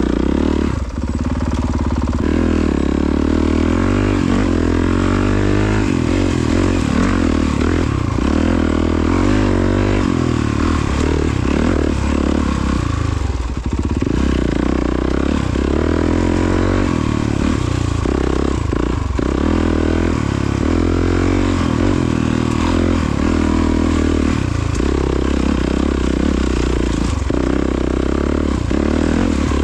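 Honda CRF450RWE's 450 cc single-cylinder four-stroke engine being ridden hard off-road, its pitch rising and falling over and over as the throttle is worked through the gears, with brief drops when the throttle is rolled off, about a second in and again near the middle.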